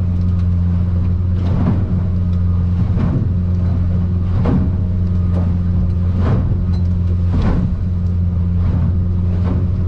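Boat's outboard motor running steadily with a low drone, while the aluminium hull slaps into the waves about every one and a half seconds as it rides over swells in rough water.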